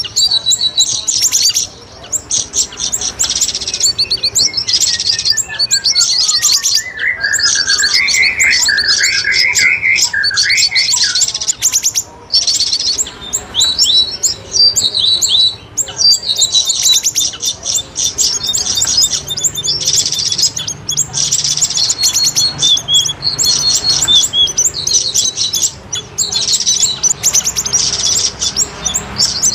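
Bird-lure recording of cucak rawis and siri-siri calls: rapid high chirping trills repeated almost without pause. A lower, warbling song joins from about four to eleven seconds in.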